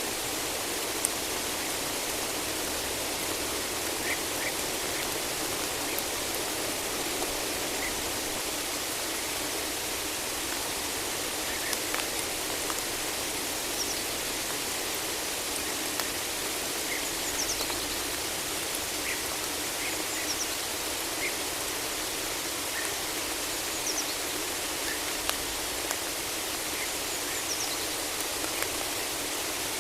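Steady rain falling in a forest: an even hiss with now and then a single louder drop. Faint short bird chirps come through here and there.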